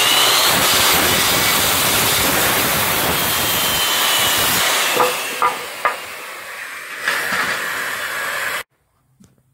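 Power tool running steadily, a loud hissing whir with a faint whine that sinks slowly in pitch and a few clicks partway through, then cut off suddenly near the end.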